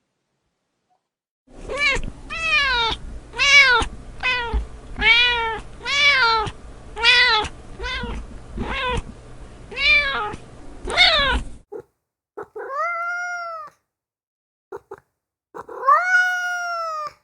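Domestic cat meowing over and over: about a dozen short meows that rise and fall in pitch, in quick succession over a low hum. Then two longer, drawn-out meows follow with pauses between them.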